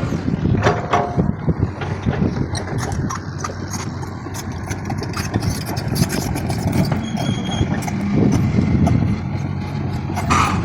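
Motorcycle engine running steadily, with scattered clicks and a brief burst of noise near the end.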